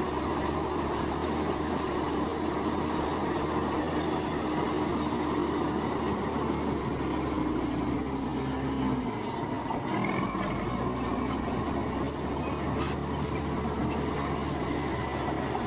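Heavy diesel construction machinery running steadily: a low engine drone with a high whine that wavers in pitch about two thirds of the way through.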